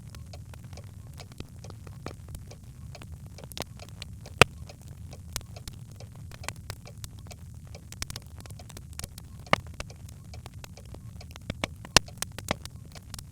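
Birchwood fire burning in a fireplace: a steady low rumble of flames with irregular sharp crackles and pops, the loudest pops about four seconds in and near the end.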